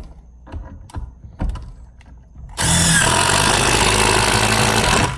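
Old brushed Ryobi 18V cordless impact driver driving a Tapcon concrete screw, running hard for about three seconds starting halfway in. It is preceded by a few light knocks as the screw and tool are set in place.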